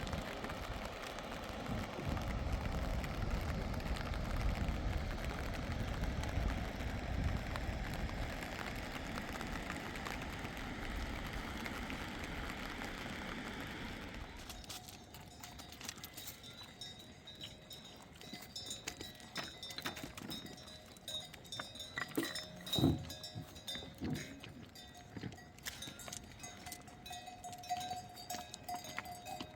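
A steady rushing noise that drops away about halfway through, followed by a quieter stretch of scattered knocks and faint clinking bell tones, as of livestock bells on a flock.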